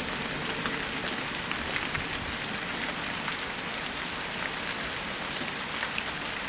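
Steady rain falling, with many small ticks of individual drops hitting close by.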